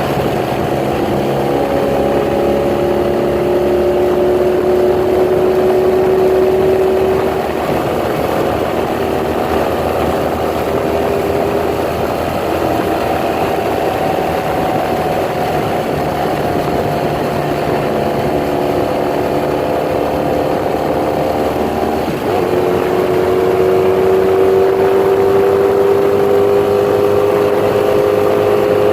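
1982 Honda Magna's V4 engine running through newly fitted Emgo mufflers, its pitch shifting slowly, with a sudden change in the engine note about twenty-two seconds in.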